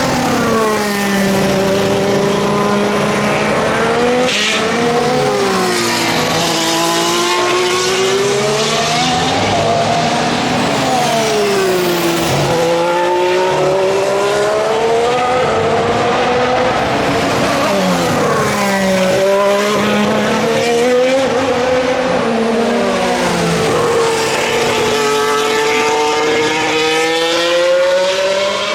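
2019 Formula 1 cars' 1.6-litre V6 turbo-hybrid engines passing one after another. Each engine note drops sharply as the car brakes and downshifts into the chicane, then climbs in steps through the upshifts as it accelerates away.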